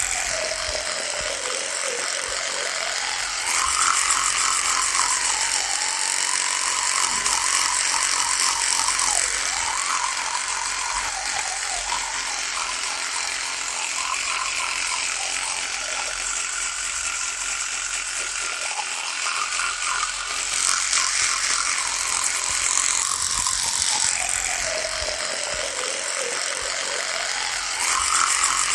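Electric toothbrush buzzing continuously, its pitch dipping and rising again over and over, with a few louder, brighter stretches lasting several seconds.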